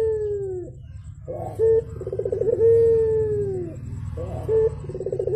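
Barbary dove (burung puter) cooing over and over: each call is a short note, a quick rolling trill, then a long drawn-out coo that falls away at the end, repeating about every three seconds. A steady low hum runs underneath.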